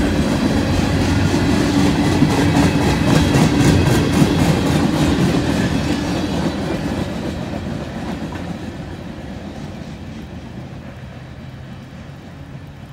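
Loaded covered hopper cars of a freight train rolling past, wheels clicking over the rail joints, the rolling noise fading away over the second half as the end of the train moves off.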